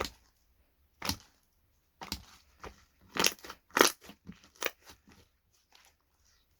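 Slime being squished and pressed by hand, giving a run of irregular sharp pops and crackles, thickest and loudest about midway.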